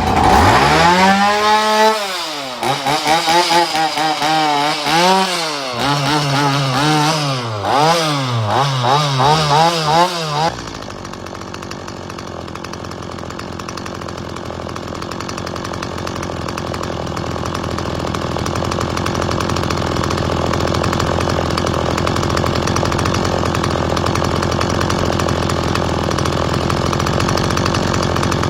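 Stihl MS170 chainsaw's small two-stroke engine running: revved up and down in repeated blips for about ten seconds, then dropping suddenly to a steady idle. The carburettor holds the idle on this test run after a new fuel hose, spark plug and fuel filter.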